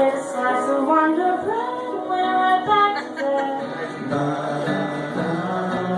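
A live band playing a song, with a sung melody over instruments.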